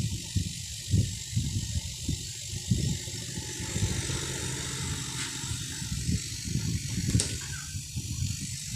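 Refrigerator compressor running with a low hum, under irregular low knocks from handling. Two light clicks come about five and seven seconds in.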